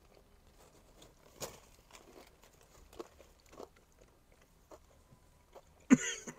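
Biting into and chewing a fried Nashville hot chicken tender: faint, irregular crunches of the fried crust. A brief, louder vocal sound from the eater comes near the end.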